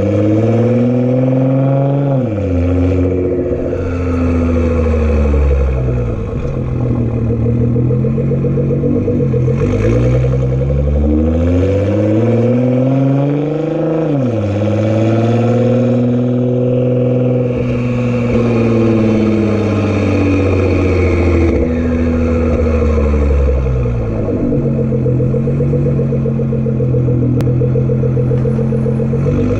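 Nissan GT-R twin-turbo engine through a straight-piped Nismo exhaust, pulling under load. Its pitch climbs steadily and drops sharply at gear changes about 2 s and 14 s in. Midway it slows and picks up again.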